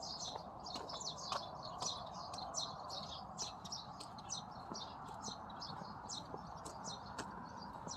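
Small birds chirping: a busy stream of short, high chirps, several a second, over a steady background hiss.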